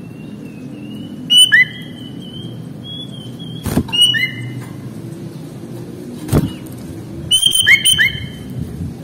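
Sooty-headed bulbul (kutilang) singing in short bright whistled phrases, three bursts about a second in, around four seconds and near eight seconds. Two sharp clicks fall between them.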